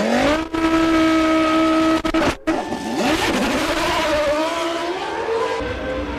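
Formula One car engines running at high revs, one held at a steady high pitch, then another whose pitch rises and falls with the throttle. The sound breaks off sharply at the start and again about two and a half seconds in, where the footage cuts between shots.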